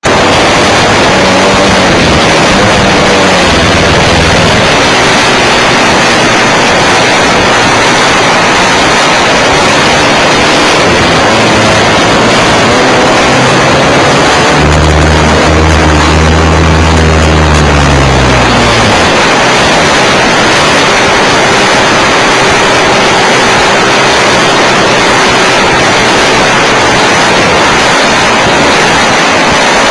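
Nitro glow engine and propeller of a .91-size RC aerobatic plane running, heard loud through a camera mounted on the plane, with rushing noise filling the sound. A low pitched drone joins for a few seconds midway and drops in pitch as it fades.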